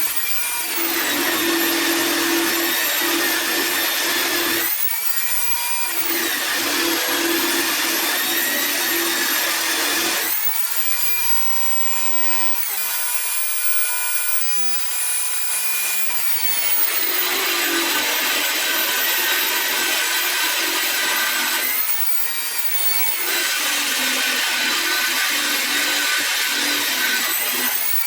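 Angle grinder running with a steady high whine, cutting into metal four times: each cut adds a rough grinding noise over the whine, and between cuts the disc spins free.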